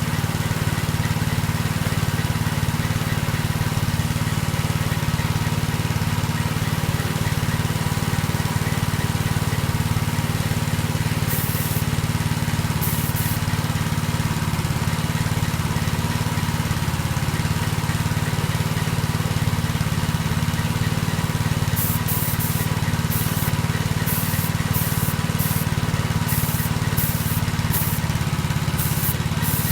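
Paint being sprayed in short hissing bursts: two near the middle, then a quick run of many from about three-quarters through. A steady low machine hum runs underneath.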